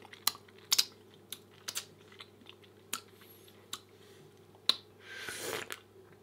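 Close-miked chewing of a soft pancake: wet mouth clicks and smacks at irregular intervals, with a short louder rustling sound about five seconds in.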